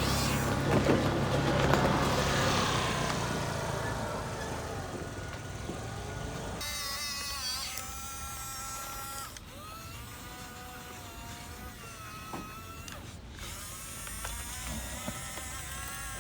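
Electric motors and plastic gearboxes of a radio-controlled toy construction vehicle whirring. The pitch rises and falls as it drives and works. The first few seconds are louder and rougher, and a thinner, changing whine follows.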